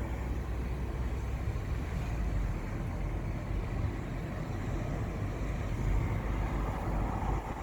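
Wind buffeting the microphone in a steady low rumble over the rush of sea waves at the harbour.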